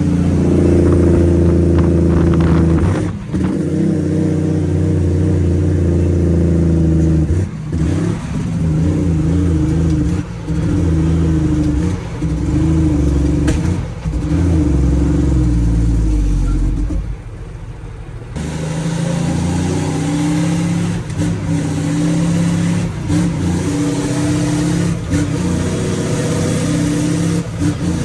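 Straight-piped Cummins ISX inline-six diesel of a semi truck running loud under load, the exhaust note dropping out briefly every two to three seconds as it is shifted through the gears of an 18-speed transmission. There is a longer lull of about a second a little past halfway.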